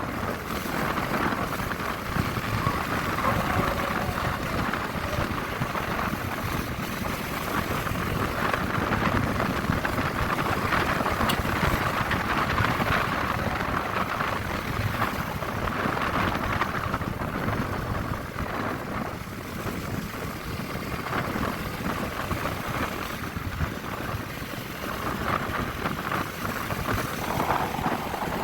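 Honda CB150R single-cylinder motorcycle riding along, its engine running under a steady rush of wind on the microphone.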